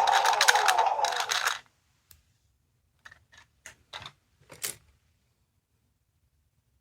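A small sound-effect capsule toy playing a recorded electronic sound through its tiny speaker, a steady tone with rapid clicks and a falling glide, which cuts off about a second and a half in. It is followed by a handful of light plastic clicks and taps.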